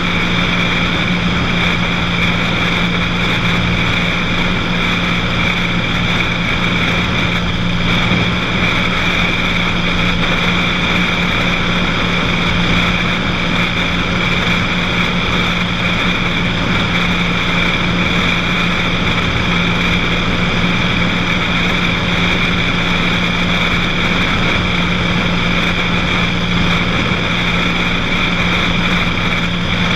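Cessna 182's piston engine and propeller running at a steady power setting in flight, an even drone that does not change in pitch or loudness.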